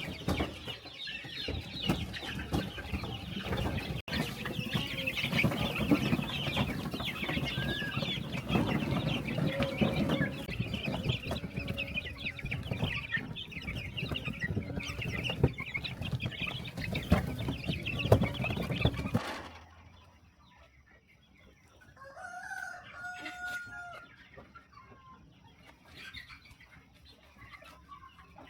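A flock of chickens clucking and squawking busily, dense and continuous, until it cuts off abruptly about two-thirds of the way through. After the cut, over a quiet background, one long call rings out for about two seconds.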